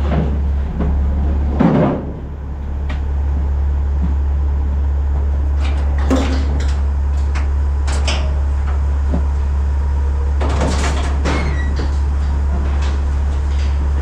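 A steady low hum with scattered knocks and rattles, the longest burst of clatter coming about ten seconds in.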